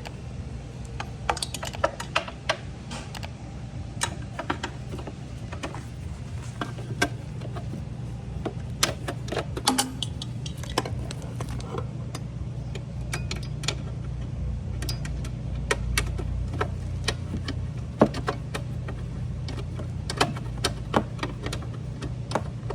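Irregular metallic clicks and clinks of hand tools and loose hardware being handled, as long screws are taken out of a refrigerator's compressor mounting, over a steady low hum.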